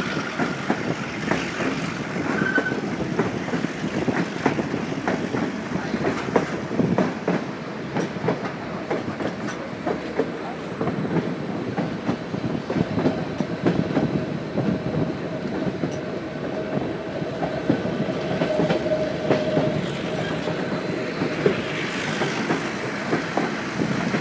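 Narrow-gauge passenger train of the White Pass & Yukon Route running along the rails, its wheels clattering over the track joints in a continuous rattling clickety-clack, heard from an open window of a passenger car.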